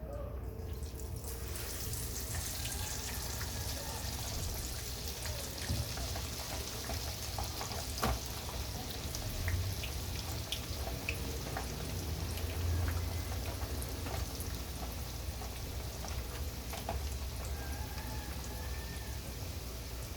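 Cornmeal-battered fish frying in hot oil: a steady sizzle with scattered pops and crackles that swells up about a second in, over a low hum.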